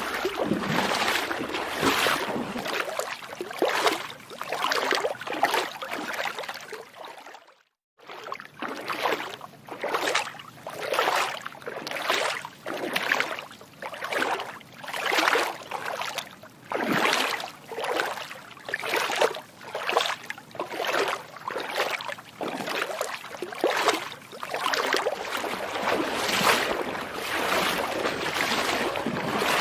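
Feet wading through shallow water, splashing in a steady rhythm of roughly one step a second. The sound cuts out for a moment about eight seconds in.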